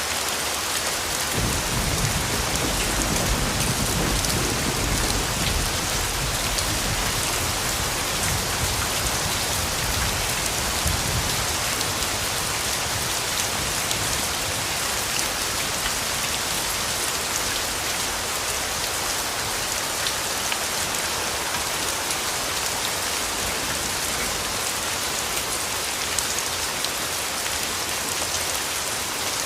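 Steady rainfall hissing on leaves and ground, with a low, distant thunder rumble starting about a second and a half in and dying away over the next ten seconds.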